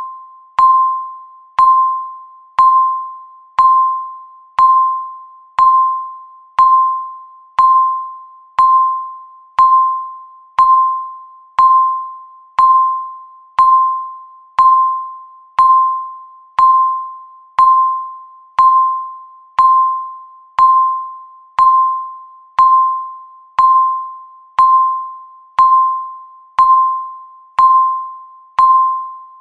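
Countdown timer beep sounding once every second: a single high electronic tone, the same pitch each time, that starts sharply and fades away before the next.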